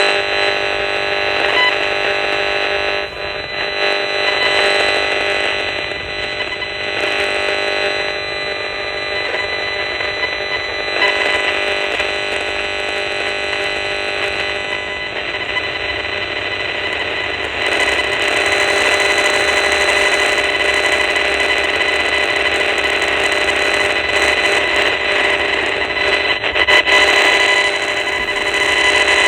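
RF radiation meter's audio output: a loud, steady electronic buzz with held tones over a hissing noise, growing louder about two-thirds of the way through as the meter picks up stronger high-frequency signals.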